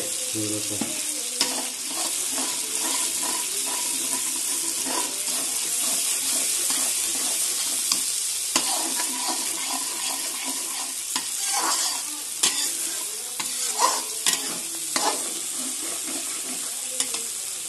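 Spiced tomato masala sizzling in hot oil in a steel kadhai while a steel spatula stirs through it, with several sharper scrapes of the spatula against the pan in the second half.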